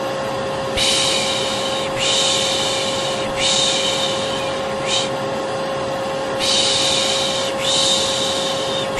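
Vacuum cleaner running steadily with a constant whine, overlaid by a voice making long 'shh' shushing sounds over and over, each about a second long with short breaks, to soothe a baby to sleep.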